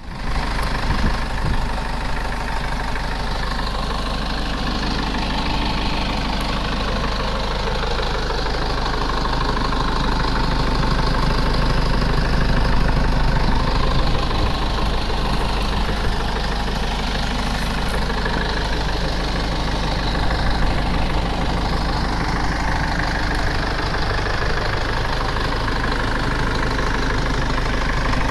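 2011 Mitsubishi Fuso truck engine idling steadily.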